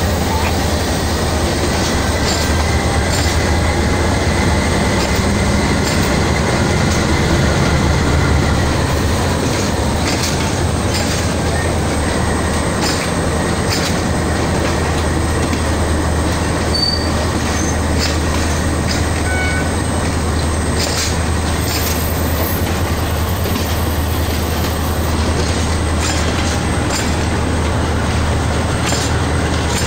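Passenger train coaches rolling past close by: a steady rumble of steel wheels on the rails, with irregular clacks over rail joints. A thin wheel squeal runs through the first several seconds, and a few brief high squeaks come later.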